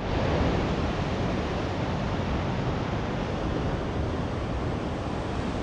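Big Pacific Ocean waves breaking on the shore: a steady, continuous roar of surf.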